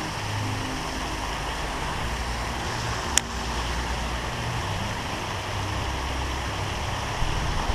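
Steady rushing of a waterfall, with a single sharp click about three seconds in.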